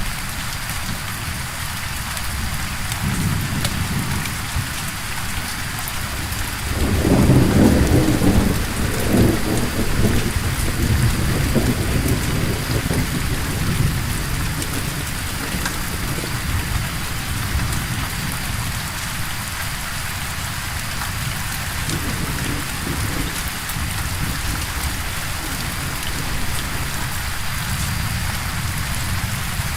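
Steady rain falling, with a roll of thunder about a quarter of the way in that is loudest for a couple of seconds and then rumbles away over several more. Fainter distant rumbles come and go.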